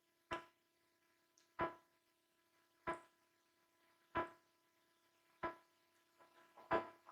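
Chewing sounds: a sharp smack about every second and a quarter in a steady rhythm, six in all.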